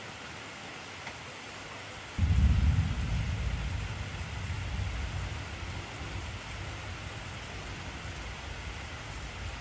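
Steady heavy rainfall hissing, with a peal of thunder about two seconds in: a sudden low rumble that slowly dies away over the next several seconds.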